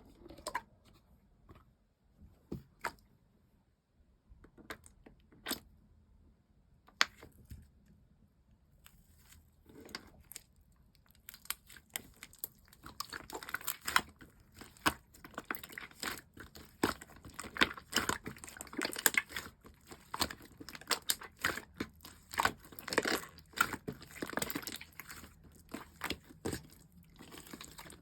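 Slime being handled: a few scattered pokes and clicks at first, then from about eleven seconds in, dense sticky crackling and popping as it is squeezed and pressed.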